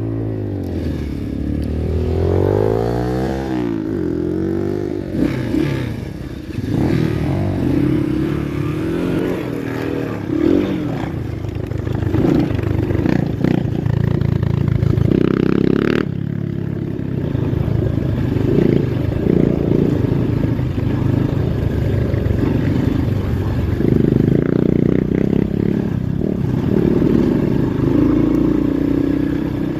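Kayo Evolution T1 pit bike engine being ridden, revving up and down repeatedly as the throttle is opened and closed.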